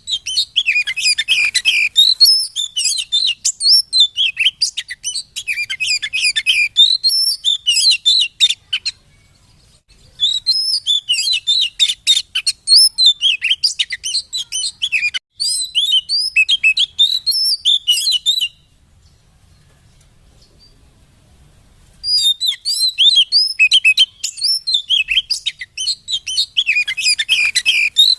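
Oriental magpie-robin song: fast, dense runs of high chirps and whistles, breaking off briefly about nine seconds in and for about three seconds past the middle before starting again.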